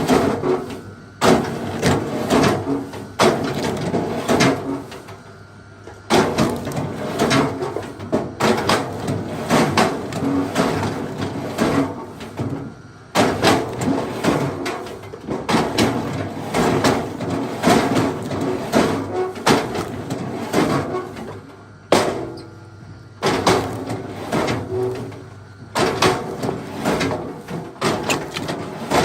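Wood being chopped: a series of sharp blows and cracks, some ringing briefly, with clattering between them and a few short pauses.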